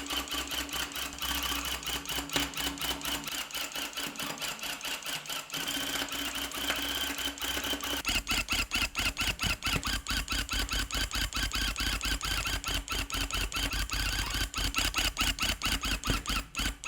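Electric tufting gun running, punching yarn into the backing cloth in a fast, rapid-fire stitching rhythm. About halfway through it turns steadier and louder.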